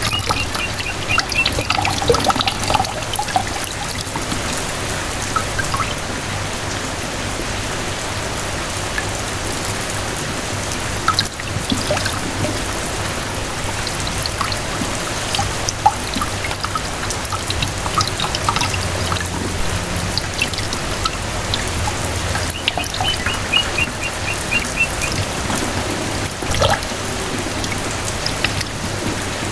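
Steady rain falling, with drops pattering and water trickling and pouring. About three-quarters of the way through, a bird calls a quick run of repeated high notes.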